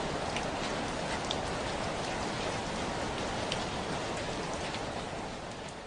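Steady rain falling, a dense hiss with scattered individual drops ticking through it, fading out near the end.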